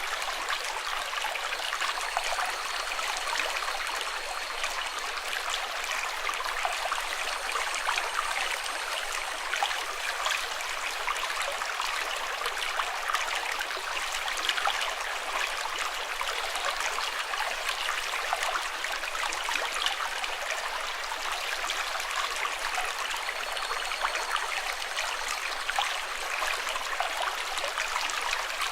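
Running water splashing and trickling steadily, like a small stream.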